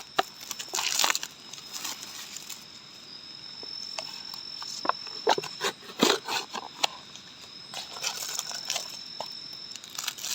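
Night insects, crickets among them, keeping up a steady high-pitched trill, with irregular crinkling, rustling and small clicks of packaging and gear being handled close by.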